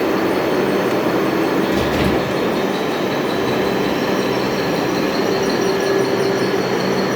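Metal-turning lathe running steadily, with a steady high whine over the machine noise and a brief knock about two seconds in.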